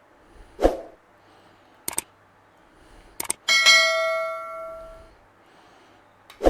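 A single metallic bell-like ding that rings on and fades over about a second and a half, preceded by a soft thump and a couple of sharp clicks.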